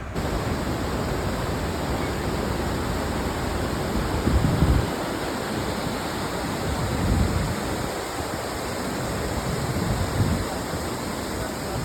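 Krangsuri waterfall's water rushing steadily, with a few brief low rumbles about four, seven and ten seconds in.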